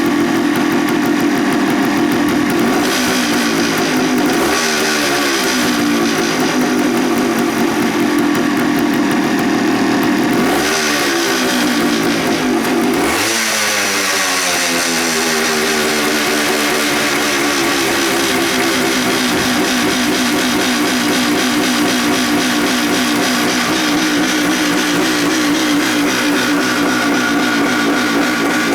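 Suzuki TS400 Hustler's single-cylinder two-stroke engine running steadily at idle. It is blipped several times, the pitch rising and falling back: about three seconds in, again around eleven seconds, and once more a little later.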